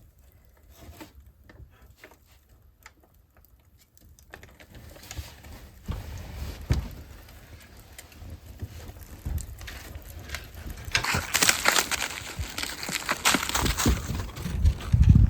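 A newly lit fire in a wood-burning stove: scattered crackles of kindling that grow into a denser, louder crackle as it catches, with a few heavier knocks near the end.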